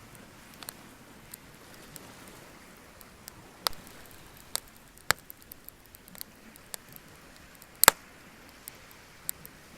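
Bonfire crackling: irregular sharp pops and snaps over a steady low hiss, the loudest snap about eight seconds in.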